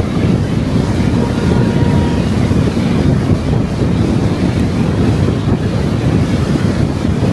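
Steady wind and road noise of a car driving along at speed, a loud, even rush buffeting the microphone.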